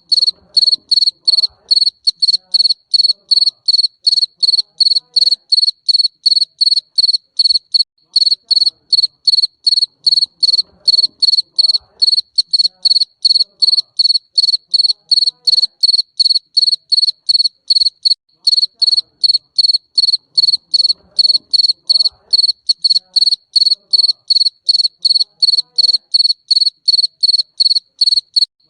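A garden cricket chirping: short, rapid chirps on a single high pitch, repeated at an even pace without a break.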